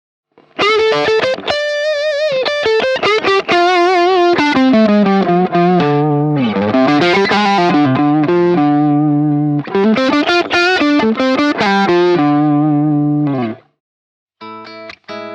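Electric guitar played through a BSM HS-S silicon-transistor treble booster into a driven amp, giving a gritty lead tone. It plays single-note lead lines with wide vibrato and sliding bends, stops near the end, and then starts a new, choppier passage after a short gap.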